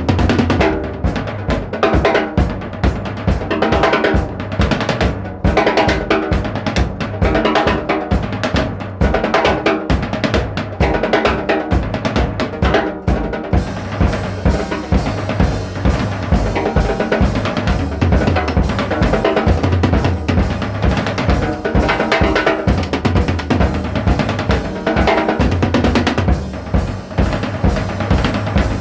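Music driven by a drum kit: a steady fast beat of kick and snare with cymbals, the cymbal wash thickening about halfway through.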